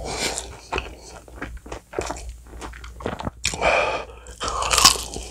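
Close-miked chewing of a mouthful of sauce-coated bone-in fried chicken: wet smacking and crunching, with two louder noisy rushes around the middle and near the end.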